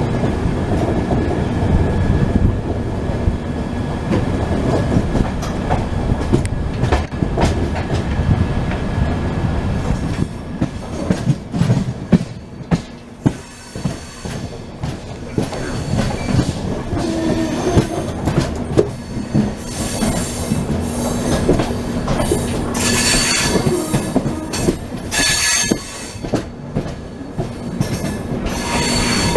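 Express train running on the rails, heard from on board: a steady low rumble with sharp rail clicks and knocks, and high-pitched wheel squeal coming and going over the second half.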